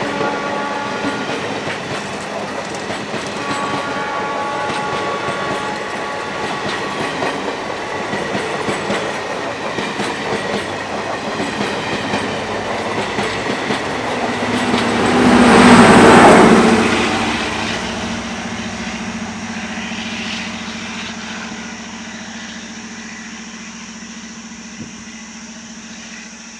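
DEMU (diesel-electric multiple unit) train passing close by, its wheels clattering over the rail joints. It grows loudest about 16 seconds in as the diesel power car goes by with its engine running, then fades as the train moves away.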